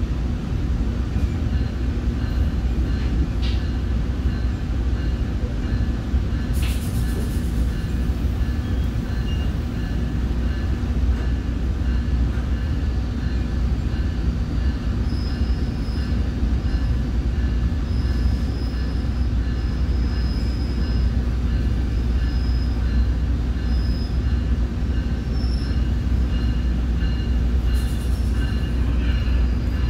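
Commuter train running, heard from inside a passenger car: a steady low rumble with thin high-pitched wheel squeal that comes and goes, and a few brief clicks.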